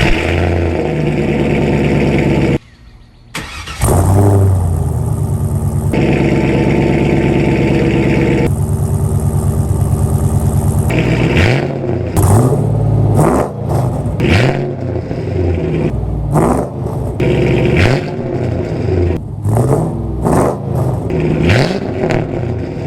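Pontiac WS6 Trans Am V8 running through a newly fitted Speed Engineering exhaust with X-pipe: a steady idle drone at first, then from about halfway through, quick throttle blips about once a second, each rising and falling in pitch. The exhaust tone is one the owner calls not too loud and not too raspy.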